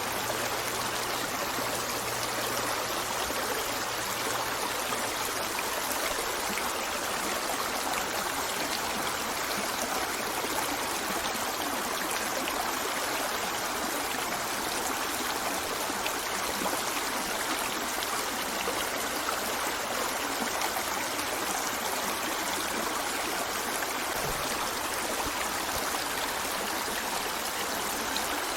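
A river flowing steadily: an even rush of running water with fine trickling and gurgling over the stones.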